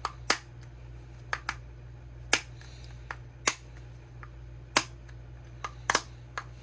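Small hinged plastic snap lids of a diamond-painting bead storage case clicking one after another: about ten sharp plastic clicks at irregular intervals.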